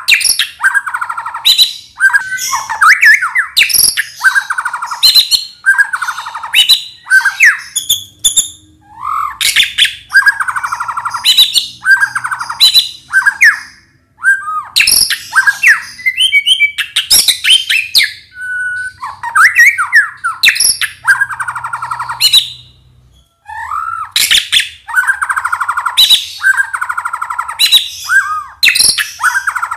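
White-rumped shama (murai batu) singing in full song: rapid, loud phrases of sliding whistles and sharp chattering notes, about one a second, with a few short pauses.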